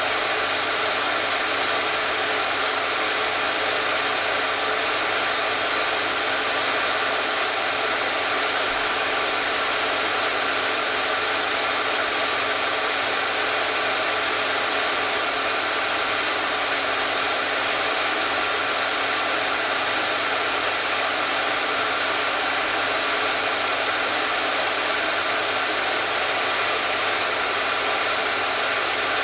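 Electric hair dryer running steadily: an even, unchanging blowing rush with a faint steady motor hum underneath.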